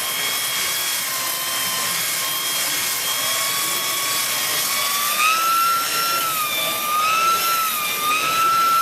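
High-speed electric power tool motor running with a steady whine while a wooden workpiece is sanded. About halfway through the pitch rises, then wavers up and down as the tool is pressed into the wood and eased off.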